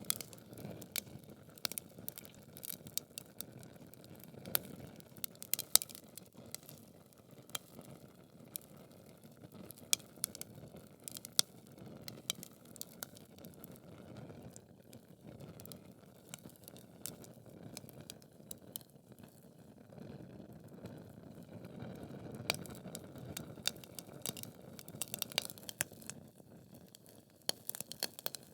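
Wood logs burning in a fireplace: a steady low rush of flame with frequent sharp crackles and pops at irregular intervals.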